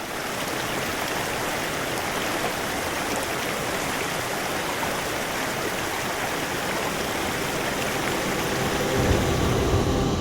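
Steady rain falling, an even hiss. A low rumble joins about nine seconds in.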